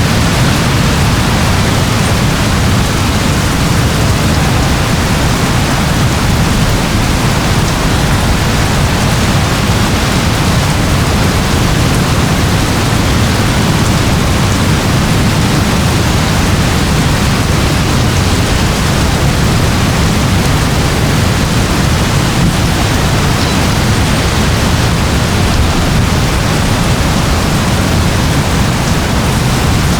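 Steady rain: an even, unbroken hiss with a strong low rumble beneath it.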